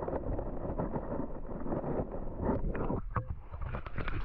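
Wind buffeting the microphone, a steady rumbling noise with a few brief knocks in the last second or so.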